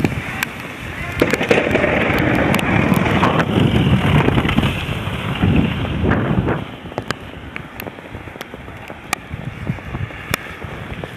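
Wind blowing in a snowstorm and buffeting the camcorder microphone, a loud rushing that swells about a second in and eases off past the middle, with scattered faint clicks.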